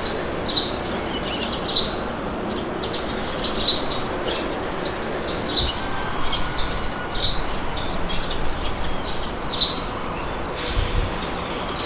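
Steady wind noise with small birds chirping in many short, high calls, and a brief low rumble near the end.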